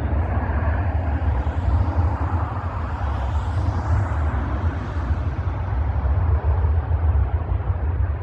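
Steady low rumble of the Rolls-Royce Trent 700 jet engines of an Airbus A330-300 climbing away after takeoff.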